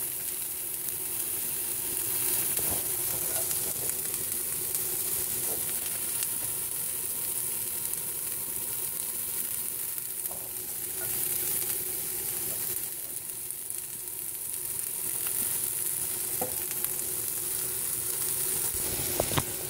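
Carrot rounds and scallion whites sizzling steadily in hot oil in a skillet, with a few faint clicks and a faint steady hum underneath.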